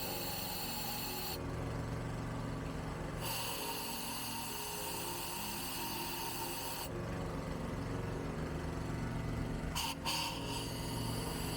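Compressed-air blow gun hissing into the ports of a Renault 1.2 8v cylinder head, with a workshop air compressor humming underneath; this is a compressed-air test of freshly lapped valve seats. The high hiss stops twice, for about two and about three seconds, while the low hum carries on.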